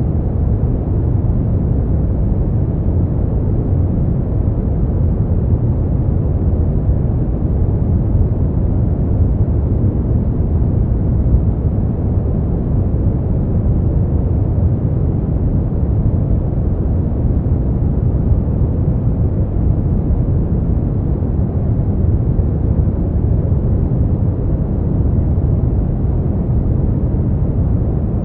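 Brown noise: a steady, deep rumbling hiss with most of its energy in the low end and little above a few kilohertz, unchanging throughout.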